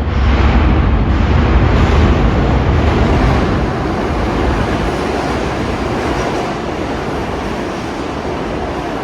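New York City subway train running along the track through the station, a loud rumbling clatter. It is loudest over the first few seconds, then eases off slowly.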